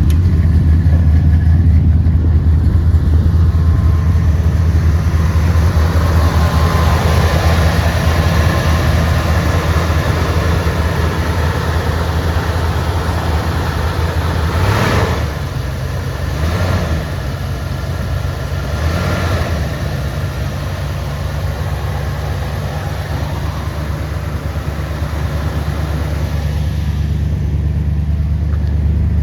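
Ford 460 V8 of a 1976 F-150 idling just after a cold start, with the choke set. About halfway through the throttle is blipped three times in a few seconds, and the engine then settles to a lower, quieter idle.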